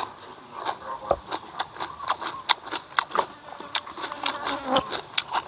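Close-up eating of a raw cucumber: a bite into the whole cucumber, then a run of irregular, sharp crunches as it is chewed.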